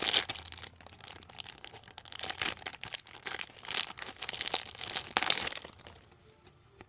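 Crinkly plastic wrapping being handled and torn open, an irregular run of crackles that dies away about six seconds in.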